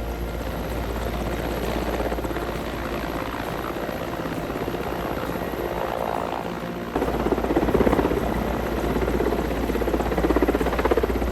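Helicopter running with a steady rotor and turbine hum, growing louder about seven seconds in.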